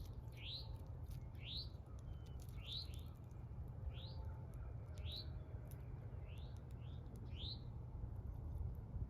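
A small bird chirping over and over, about eight short rising chirps spaced roughly a second apart, over a steady low rumble.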